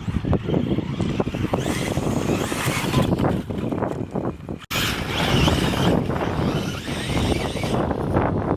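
RC truck driving hard over rough dirt and debris, with tyres crunching and frequent knocks, and wind buffeting the microphone. The sound cuts out for an instant about halfway through.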